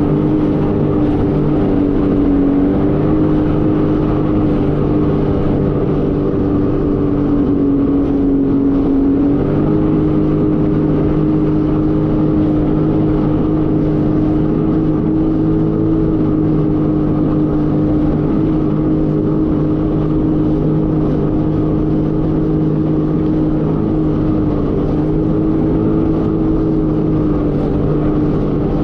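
Jet ski engine running steadily at speed, its pitch shifting up slightly a couple of times.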